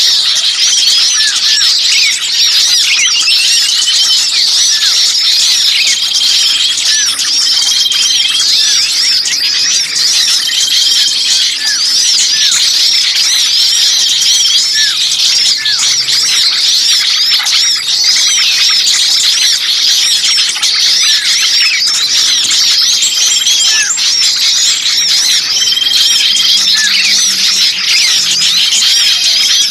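A dense, noisy chorus of many small songbirds calling rapidly in high chirps and twitters, with short whistled notes repeating every second or two. It is a bird-luring recording of agitated small birds ("burcil ribut"), played to draw wild birds in.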